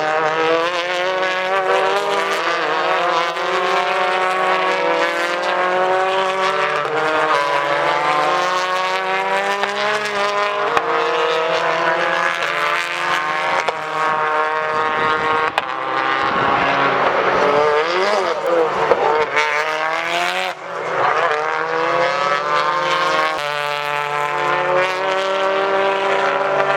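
British Touring Car Championship race cars running at speed, several engine notes rising and falling as they change gear and pass one after another.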